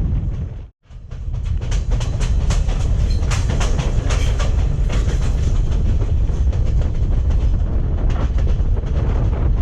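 Train running past, a heavy low rumble with a steady run of wheel clicks over the rail joints. The sound drops out briefly just under a second in, then returns.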